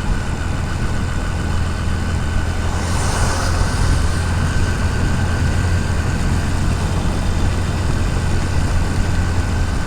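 Motorcycle engine running steadily while riding, with wind and wet road noise on a helmet-mounted camera. The hiss swells briefly about three seconds in.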